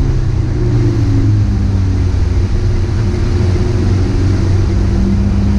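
Dacia Logan Cup race car's four-cylinder engine running under way, heard from inside the cabin; its pitch eases down slowly and then climbs again near the end.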